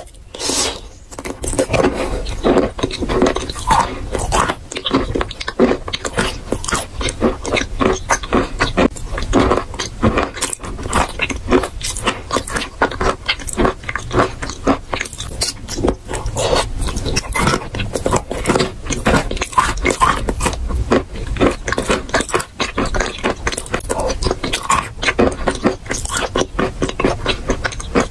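Mouth chewing a mouthful of wet chalk paste: a dense, unbroken run of crunches and wet clicks.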